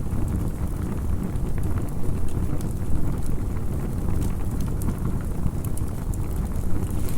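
Campfire crackling: scattered sharp pops and snaps over a steady low rumble of burning.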